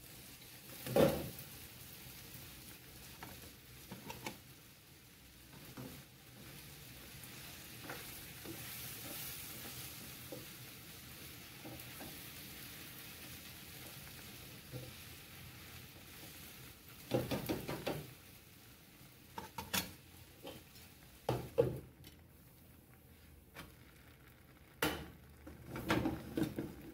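Diced potatoes with wieners and vegetables sizzling as they fry in a frying pan, stirred now and then. Several clusters of knocks and clatters come from the pan and its lid, near the start and again over the last ten seconds.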